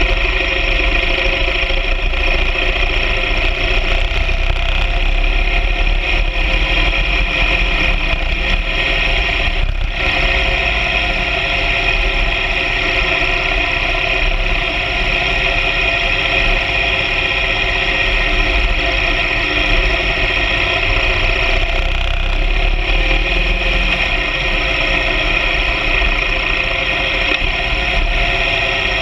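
BMW R 1200 GS Adventure sidecar rig's boxer-twin engine running steadily while riding, with a constant low rumble beneath it.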